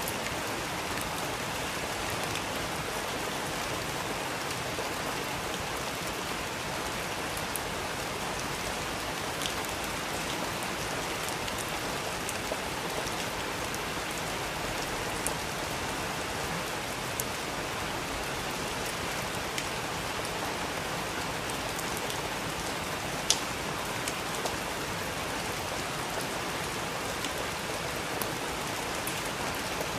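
Steady rain falling on a surface, an even hiss with scattered sharp drips ticking through it; one drip about two-thirds of the way through is louder than the rest.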